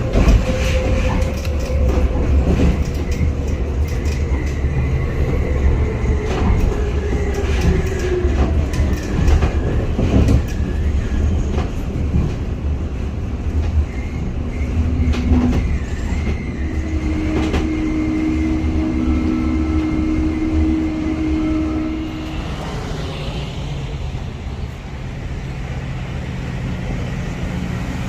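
Metra commuter train rolling past at close range: heavy low rumble with wheels clattering over rail joints and thin squeals from the wheels. It gets quieter about 22 seconds in.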